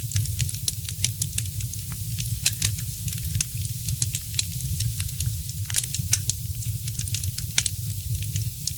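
Wood fire in a fireplace crackling: sharp, irregular pops and snaps, several a second, over a steady low rumble.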